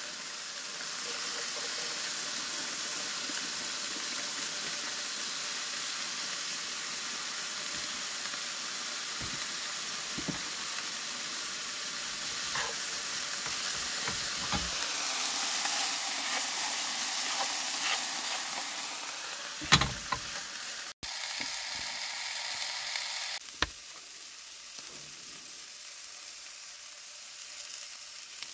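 Chicken and onions sizzling as they fry in a non-stick pan on a portable gas stove, with occasional short knocks of a utensil stirring against the pan. One sharper knock comes about two-thirds of the way through, and the sizzle turns quieter about five seconds before the end.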